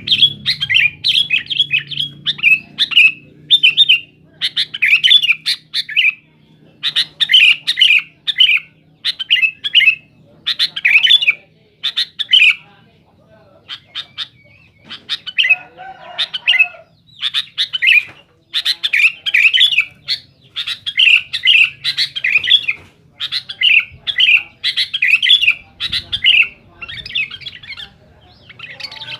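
Sooty-headed bulbul (kutilang) calling loudly and insistently: a long string of short, bubbly chattering phrases about once a second, with a pause of a couple of seconds about halfway through.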